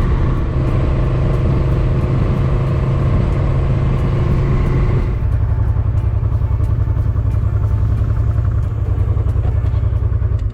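Motorcycle engine running under way, with wind noise over the microphone. About five seconds in, the wind noise eases and the engine note drops to a lower, pulsing beat.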